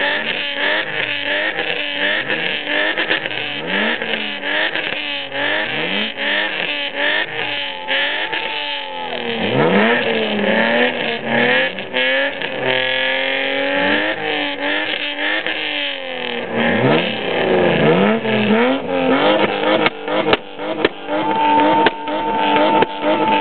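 BMW straight-six engine being revved hard in quick repeated blips, rising and falling about once a second. Twice it is run up higher and held at high revs against the rev limiter about halfway through, and a steady high tone joins near the end.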